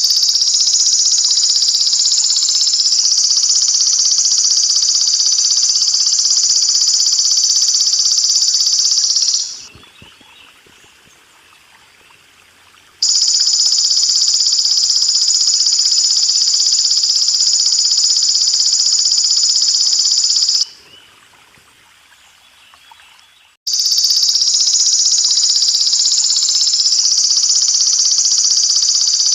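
Golden grasshopper (belalang emas) stridulating: a loud, steady, high buzz held for about seven to ten seconds at a time, broken by two pauses of about three seconds each, over a faint steady water sound.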